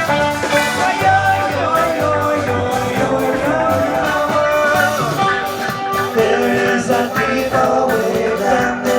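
Live band playing rock music, with guitar and a singer.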